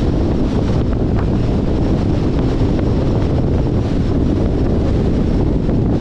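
Steady wind rumble on the microphone of a camera riding on a moving 2021 Jeep Compass, mixed with road noise from the driving car.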